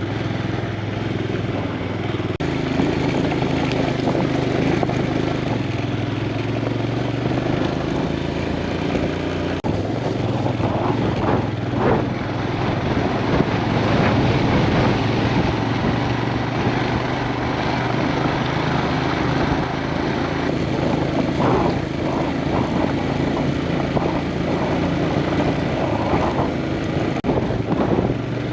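Motorcycle engine running under way while riding uphill, its pitch stepping a few times with gear changes, under a rushing wind noise.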